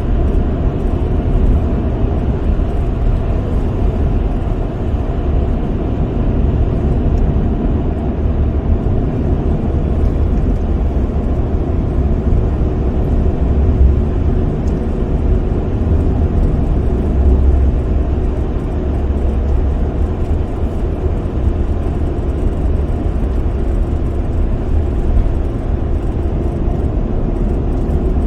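Steady road noise inside a moving car's cabin: an even, low rumble of tyres and engine while driving.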